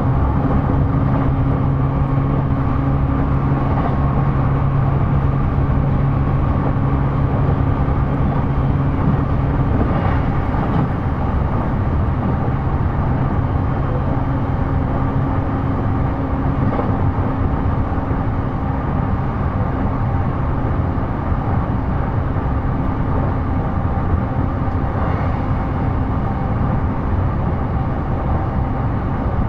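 E233 series electric commuter train running at speed, heard from inside the car: a steady rumble of wheels on rail with a low steady hum that fades about ten seconds in.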